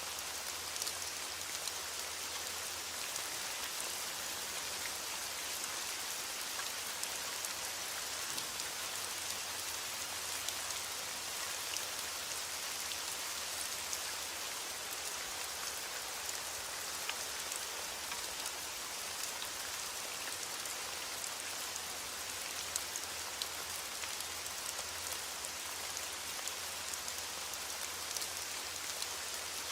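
Steady rain falling, an even hiss with many fine drop ticks spattering on a surface.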